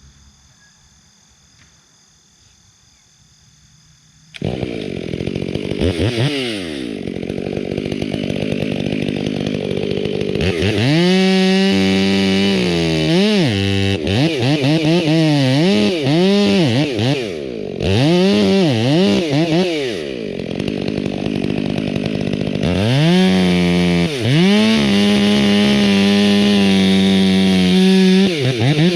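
Two-stroke chainsaw that comes in suddenly about four seconds in, then revs up and down again and again, with stretches held steady at full throttle for several seconds.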